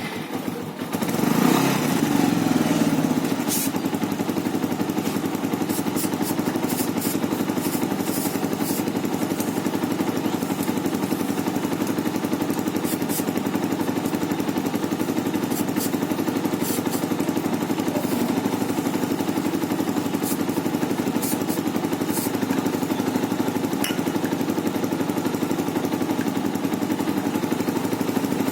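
Bajaj Avenger 220 Street's single-cylinder engine running, picking up briefly about a second in and then running steadily.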